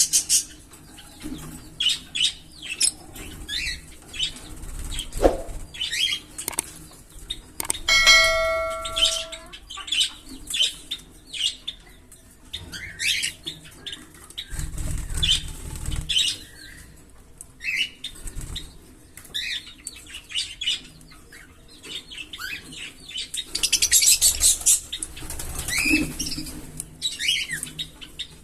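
A pair of green Fischer's lovebirds chirping in short, quick high calls, with a dense run of chirping near the end. About eight seconds in, a short ringing tone with several overtones sounds, like a small bell.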